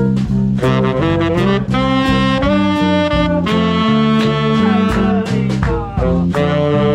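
Swing big band playing an up-tempo number, with saxophones and brass carrying the tune over walking bass and regular drum strokes.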